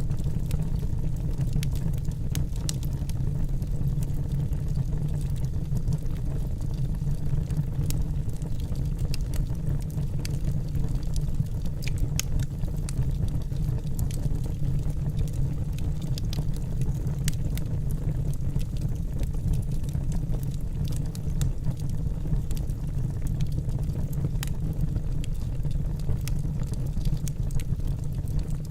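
Wood fire burning in a fireplace: a steady low rumble with scattered sharp crackles and pops from the logs.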